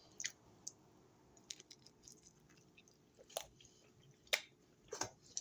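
A few faint, sharp clicks at irregular intervals, the clearest about three and a half and four and a half seconds in.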